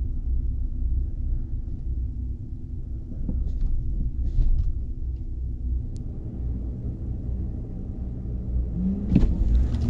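Drag-racing truck's engine rumbling steadily under load, heard from inside the cab during its launch and pass down the strip.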